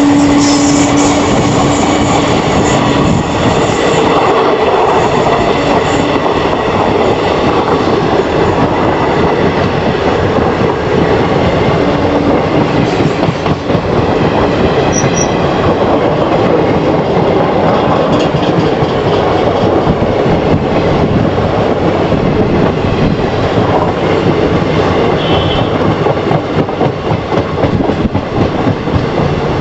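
An Indian Railways express train passing close by on a curve, its coaches' wheels clattering continuously over the track, with a steady tone in the first few seconds.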